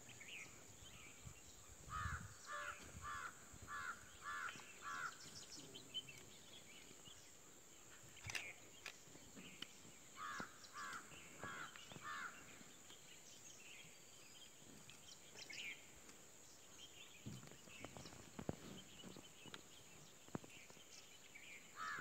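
A bird calling in quick series of short notes, about six in three seconds, then four more about ten seconds in, over a faint steady outdoor background.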